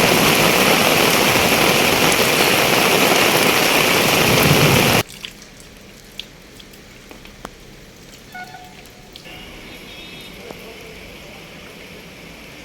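Heavy downpour: a loud, steady hiss of rain for about five seconds, cutting off suddenly to a much quieter background with a few scattered drips and clicks.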